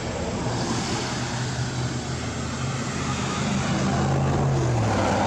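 A motor or engine running steadily with a low hum under a rushing noise. Its pitch drops slightly near the end.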